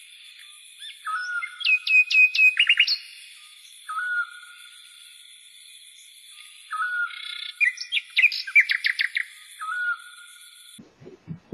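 Birdsong of a dawn chorus: a short whistled note repeating about every two seconds, with bursts of quick chirps and trills about two seconds in and again around eight seconds in. It cuts off suddenly near the end.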